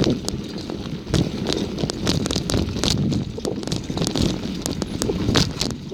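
Bicycle being ridden, rattling and clicking irregularly over a low rumble of tyre and road noise.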